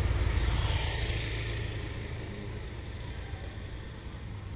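A motor vehicle's engine running with a low, rapidly pulsing rumble that fades steadily away.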